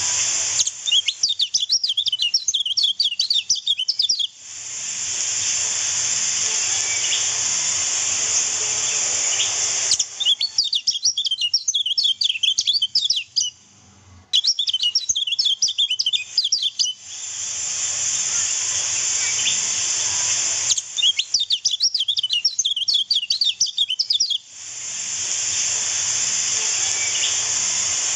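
Kecial kuning (yellow white-eye) song: four bursts of rapid, high chirping, each a few seconds long. Between the bursts is a steady high hiss.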